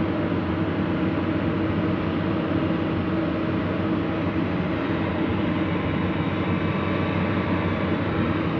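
Heavy diesel machinery engine running steadily, a constant hum over even engine noise.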